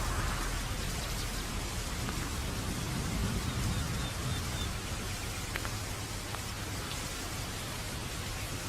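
Steady rain falling, an even hiss with scattered drips and a slight low swell about three seconds in.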